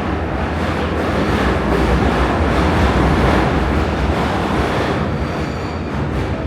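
Prague metro line A train running between stations, a steady rumble of wheels on rail and running gear that swells a little in the middle.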